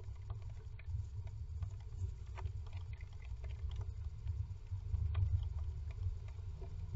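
A nesting bird shifting about in a wooden nest box, giving faint scratches, clicks and rustles of claws and nest material, over a steady low rumble.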